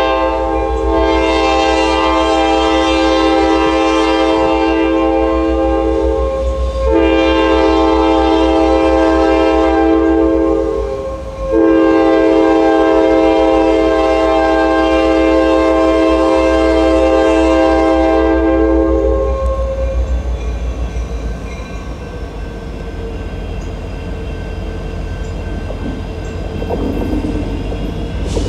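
Norfolk Southern diesel locomotive's multi-chime air horn sounding three blasts, the last one long, as the train approaches a road crossing. When the horn stops, about two-thirds of the way through, the train's low rumble and wheel clatter on the rails carry on.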